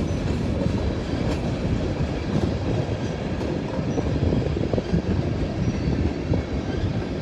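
Freight train cars rolling past: a steady, dense rumble, with a few light clicks of wheels over the rails.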